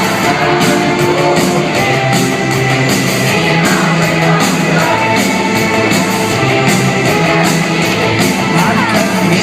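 Live rock band playing in a concert hall, with singing over the band.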